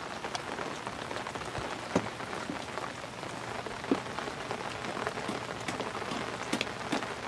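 Steady rain falling, with scattered sharper drop-like taps, the loudest about two and four seconds in.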